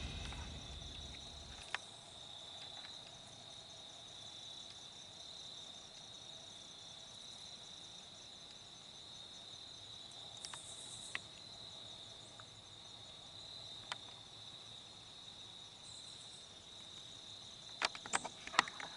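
Crickets chirping steadily, a continuous high trill, with a few faint clicks and snaps, most of them close together near the end.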